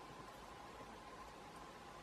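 Faint, steady background hiss with a faint, steady tone running through it; no distinct sound events.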